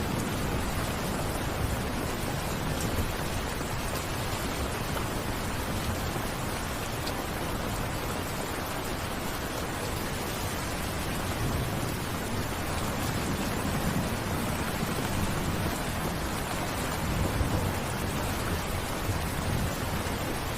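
Steady rain falling, with low rumbles of thunder swelling and fading a few times.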